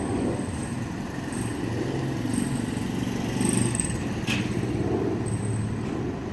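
Steady low rumble of a running engine, with one short click about four seconds in.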